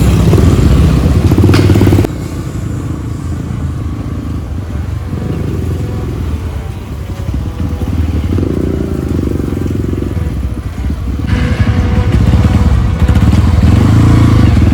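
Trail motorcycle engine running; the sound drops suddenly about two seconds in and grows louder again near the end.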